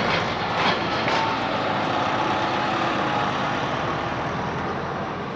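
Royal Enfield motorcycle engine running steadily, its level easing slightly towards the end.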